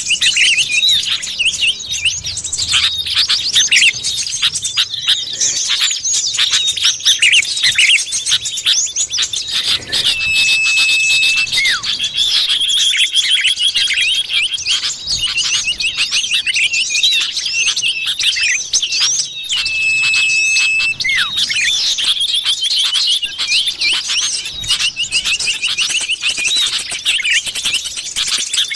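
Common iora (cipoh) calling: a dense, continuous stream of rapid high chirps and twitters, broken about every nine or ten seconds by a long level whistle that drops at its end.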